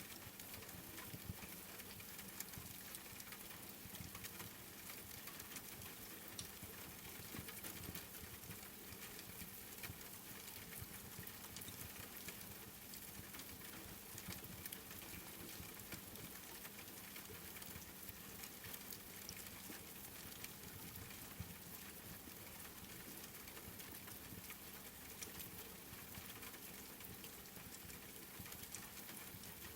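Faint, steady rain pattering mixed with a wood fire crackling, with many small pops and clicks throughout.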